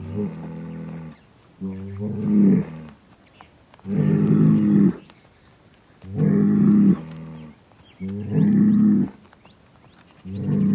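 Bull bellowing over and over. Low-pitched calls about a second long come roughly every two seconds.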